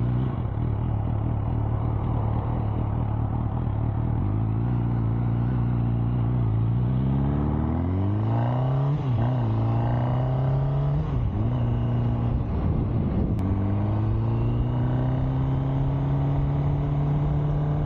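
MV Agusta Brutale motorcycle engine running at low, steady revs, then from about seven seconds in rising and falling in pitch a few times as the bike accelerates, before holding a steady, higher note.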